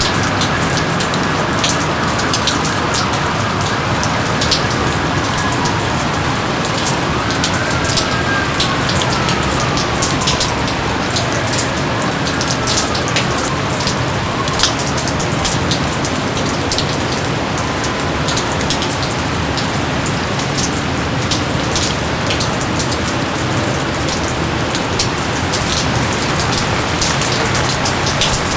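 Steady heavy rain, a constant rushing hiss dotted with many sharp, close drop hits.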